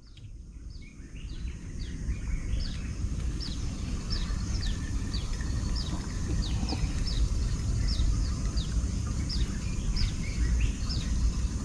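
A bird calling a long run of short, falling high chirps, about two a second, over a steady low outdoor rumble. The sound fades in at the start.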